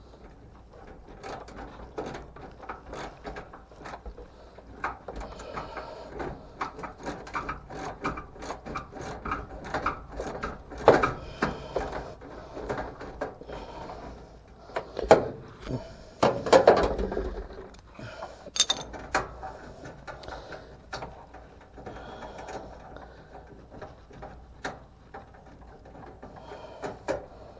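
Small socket ratchet clicking in rapid runs as screws are backed out of a clothes dryer's sheet-metal panel. A few louder knocks come a little past halfway.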